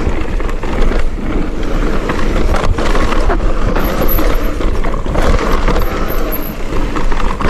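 Mountain bike riding down a dirt trail at speed: steady rushing noise, heaviest in the low end, with scattered knocks and rattles as the bike goes over bumps.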